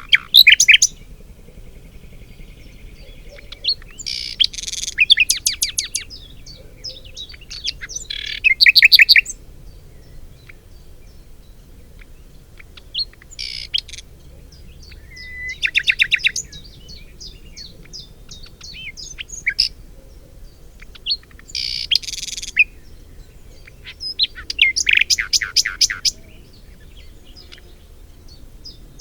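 A songbird singing short, fast trilled phrases of rapid high notes, each about a second or two long, repeated every few seconds with brief pauses between.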